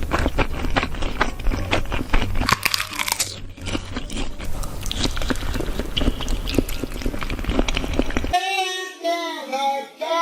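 Close-miked eating of crunchy food: loud, dense crunching and chewing. About eight seconds in it cuts off suddenly and a voice starts singing.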